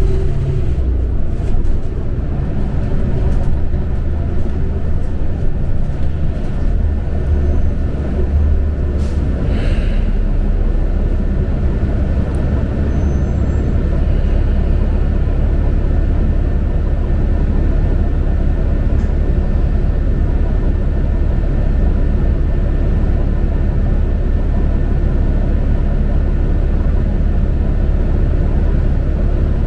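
Interior of a New Flyer XD40 diesel transit bus: the engine and drivetrain make a low rumble that rises and falls for the first dozen seconds, then settles into a steady drone. A short hiss of air comes about ten seconds in.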